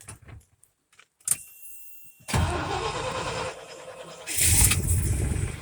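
1995 GMC Topkick's 427 gas V8 cold-started after sitting for a month. A click and a short, steady high tone come first. About two seconds in, the engine cranks and catches at once, surges louder near the end, then settles to a steady idle.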